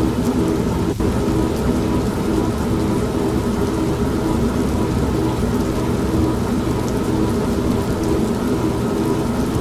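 Steady heavy rain with continuous low rumbling thunder, mixed with the steady running hum of an old manual washing machine.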